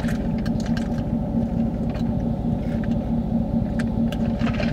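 Steady low hum of a truck engine idling, heard from inside the cab, with a few faint clicks.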